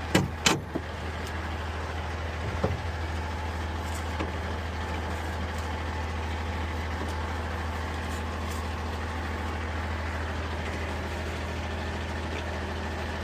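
A heavy vehicle's engine idling steadily, with a few sharp knocks in the first second and one more about two and a half seconds in.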